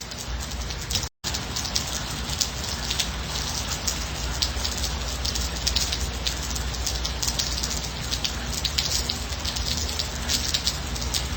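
Steady gentle rain: a dense patter of drops over an even hiss. About a second in, the sound cuts out completely for a split second.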